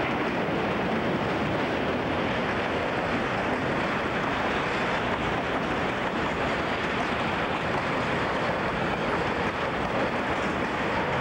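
CSX freight train rolling past as a steady, even rush and rumble. It is muffled, with its top end cut off, on an old 1988 camcorder recording.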